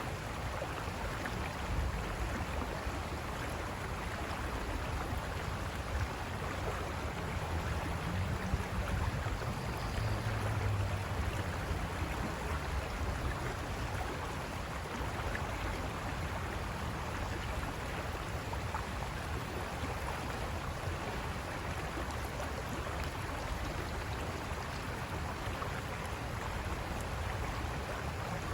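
River water rushing and splashing over rocks, a steady, even rush. A low rumble swells briefly about eight to eleven seconds in.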